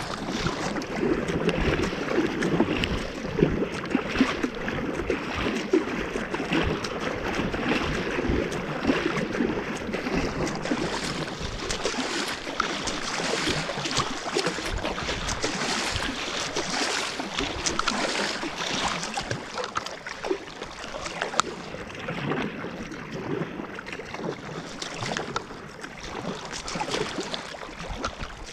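Water splashing and lapping around a kayak on the move, with a dense crackle of small splashes and drips. The splashing is fullest in the first ten seconds or so and a little thinner later.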